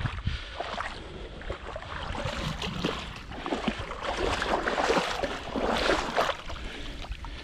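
A small boat moving through water, with the water sloshing and splashing in uneven swells that are loudest around the middle.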